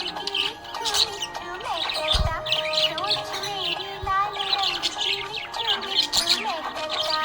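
Budgerigars chirping and warbling: many quick chirps overlapping with wavering held notes, without a break.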